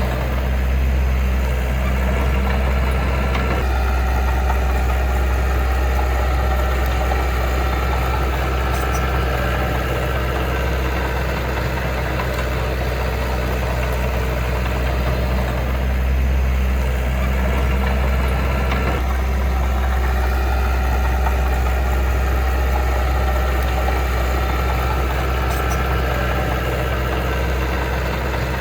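Heavy diesel engine of earthmoving machinery running steadily with a deep drone, its note shifting slightly a few seconds in and again about two-thirds of the way through.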